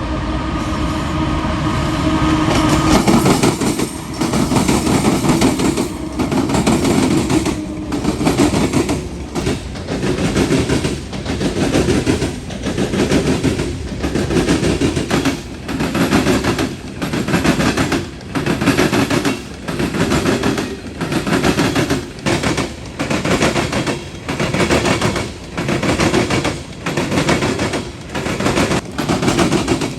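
Loaded coal train passing close by. The locomotives' diesel engines sound for the first few seconds, then the loaded hopper cars roll past with a rapid wheel clatter that swells and dips about once a second as each car goes by.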